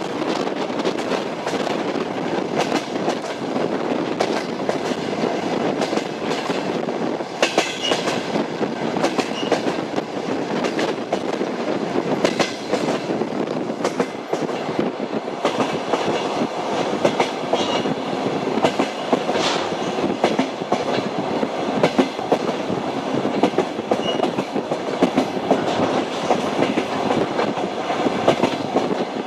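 Passenger train wheels clattering over the rail joints at running speed: a continuous rolling rumble broken by frequent sharp clicks, with a few short, faint high squeaks.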